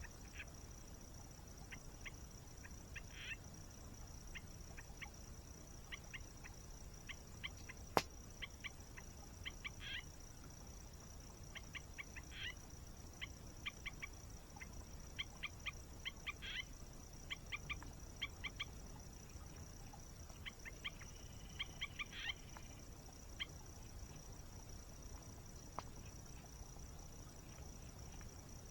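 Outdoor nature ambience: a steady high insect drone with birds chirping in quick runs, and a single sharp pop from the campfire about eight seconds in, over a faint low rush.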